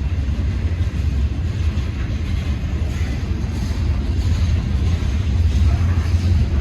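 Train rolling past, a steady low rumble with a fainter hiss of wheels on rail above it.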